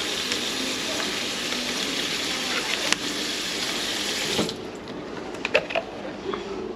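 Kitchen tap running water into a sink, shutting off abruptly about four and a half seconds in, followed by a few light knocks.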